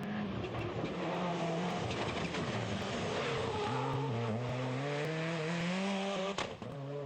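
Rally car engine under hard acceleration. Its pitch holds steady, then climbs through the middle and drops abruptly at a gear change near the end.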